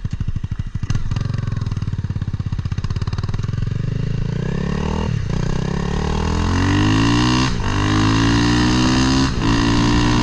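A Honda Grom's swapped-in CBR300R single-cylinder engine pulling under acceleration, its revs climbing and breaking off at several upshifts, with wind rushing past.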